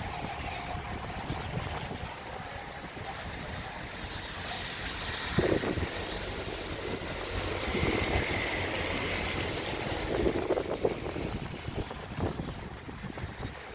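Heavy rain with wind buffeting the microphone over a low rumble, with a few brief louder bumps about five and ten seconds in.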